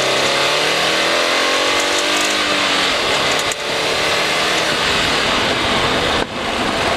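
Turbocharged 2.0-litre flat-four of a 2015 Subaru WRX, heard through a microphone in the engine bay, pulling hard at wide-open throttle in sixth gear, its pitch rising over the first couple of seconds. The sound breaks off briefly twice. This is a run on which the driver reports hearing pinging (detonation).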